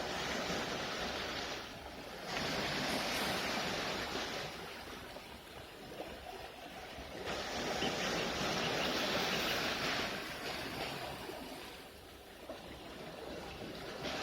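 Sea waves surging and ebbing, with two louder swells about five seconds apart. A low rumble of wind on the microphone runs underneath.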